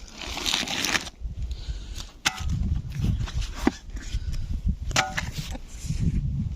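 Rustling and handling noises: a short rustle, then several sharp clicks, one with a brief ringing tone about five seconds in, over a continuous low rumble.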